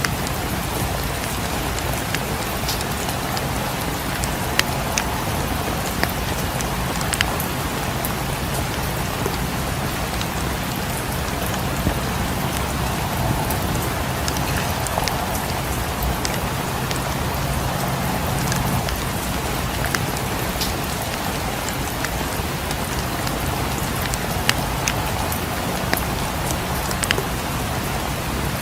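Steady rain falling, with scattered sharp pops and crackles of a wood fire in a fireplace.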